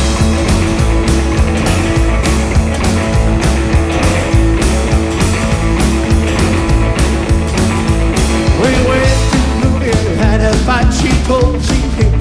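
Rockabilly band playing an instrumental passage: a driving bass line on a steady beat under guitar, with gliding lead lines coming in during the last few seconds.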